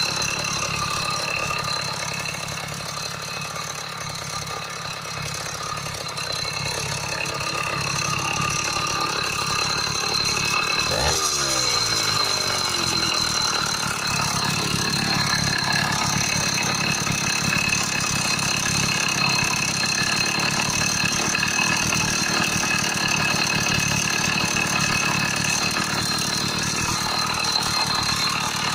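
80cc two-stroke motorized-bicycle kit engine running steadily just after being started, with a fast, even beat. A brief falling sweep in pitch comes about eleven seconds in.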